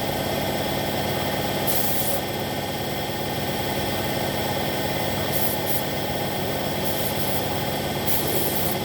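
Paint spray gun hissing in several short bursts while a motorcycle body kit is spray-painted, over a steady machine hum.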